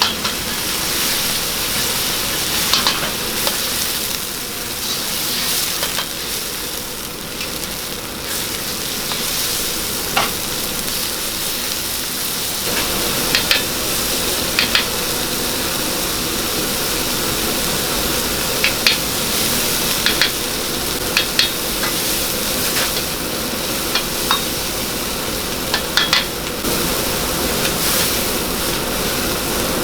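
Food frying in hot oil with a steady sizzle, while a metal utensil stirs it and clinks against the pan every few seconds.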